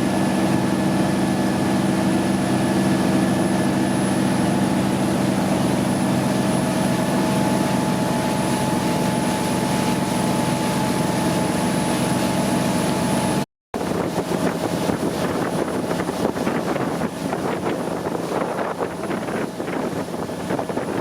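Motorboat engine running with a steady drone. After a sudden cut about two-thirds of the way in, the drone gives way to a rougher rush of wind and water.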